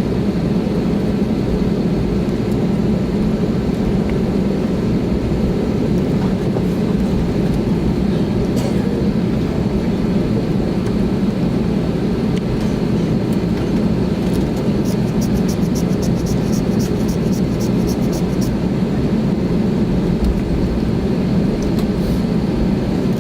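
Cabin noise of an Airbus A320neo heard from inside the cabin: a steady, loud low rumble of the engines and airflow. About two-thirds of the way through comes a quick run of light ticks, about four a second, lasting some four seconds.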